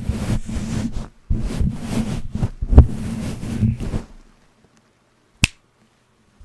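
Close microphone handling noise: a sock-covered mic being moved and rubbed, giving dull thumps and rustling over a low rumble. After about four seconds it cuts to near silence, broken by one sharp click about a second later.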